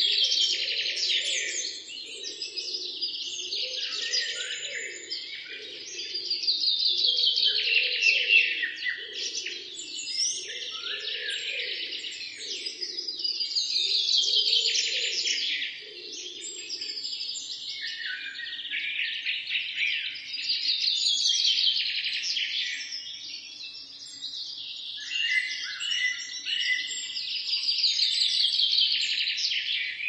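Birdsong: a small songbird singing quick trilled phrases that fall in pitch, one every three to four seconds. A fainter low pulsing sound runs under the song and fades out about halfway through.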